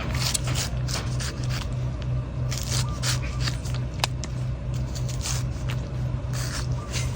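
Knife scraping and cutting into a coconut in a run of short, quick strokes, with one sharp click about four seconds in. A steady low pulsing hum runs underneath.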